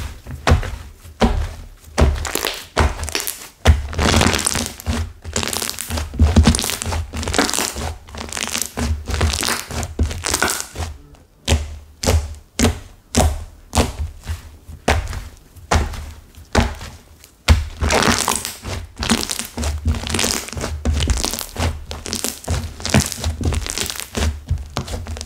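Slime mixed with clay that has hardened into crisp bits, kneaded and pressed by hand: a dense, irregular crackling and crunching with low thunks, pausing briefly a little past halfway.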